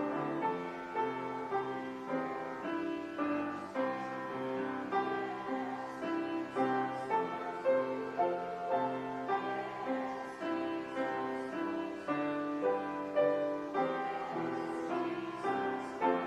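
Instrumental music played on a keyboard instrument: a melody moving over held chords.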